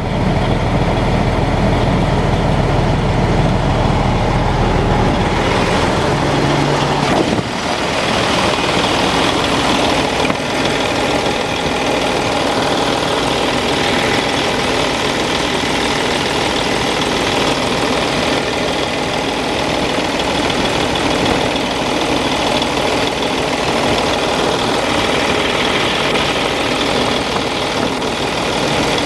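Diesel engine of a 2009 Sterling dump truck idling at operating temperature while it is checked for blowby. A steady low drone for the first seven seconds or so, then a change to a noisier, more clattering running sound that holds steady to the end.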